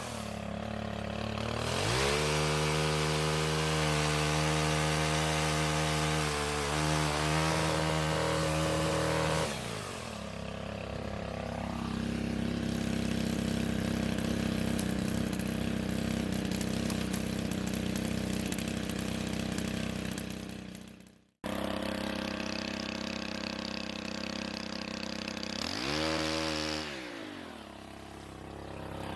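Stihl pole chainsaw's engine revved up to a steady high speed for several seconds, then dropping back to a lower speed. It breaks off sharply for an instant about two-thirds through, then runs on, with the revs dipping and climbing again near the end.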